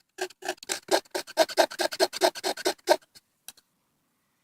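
Knife blade scraping birch bark in quick, even strokes, about four a second, building up a pile of fine shavings as tinder for a ferro rod. The strokes stop about three and a half seconds in.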